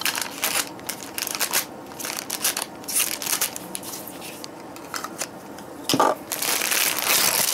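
Packaging being opened and handled by hand: crackling, crinkling rustles with sharp ticks, quieter in the middle, then a louder continuous rustle starting about six seconds in.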